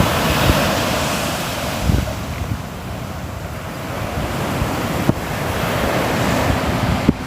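Ocean surf washing onto the shore: a loud wash that eases into a lull a few seconds in, then builds again as the next wave comes. Wind rumbles on the microphone underneath.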